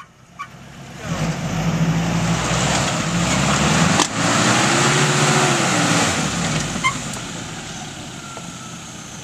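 Suzuki Vitara's engine revving under load as the 4x4 climbs a dirt slope, rising in pitch and then dying away near the end. One sharp crack sounds about four seconds in.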